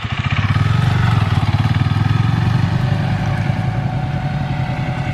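Motorcycle engine running at low revs, a steady pulsing that swells slightly about a second in.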